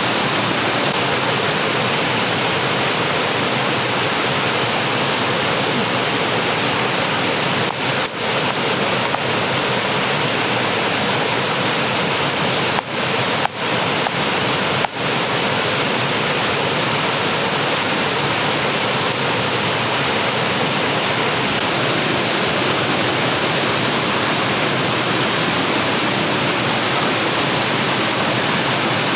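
Steady, loud hissing rush of noise, dipping briefly a few times around the middle.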